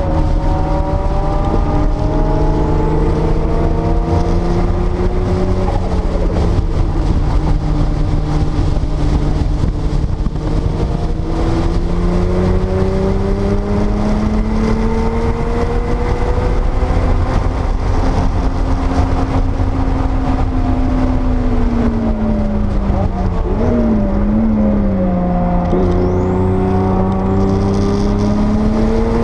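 1979 Porsche 930 Turbo's turbocharged flat-six running hard under load on track, its pitch climbing steadily as speed builds. A little past two-thirds of the way through the pitch drops with a brief waver as the driver lifts, then climbs again.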